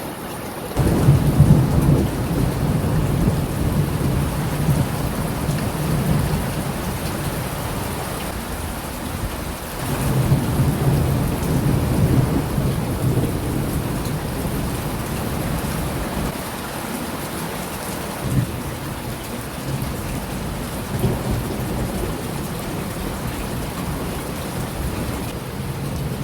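Rain falling steadily with rolls of thunder rumbling low, the first swelling in about a second in and a second one around ten seconds in.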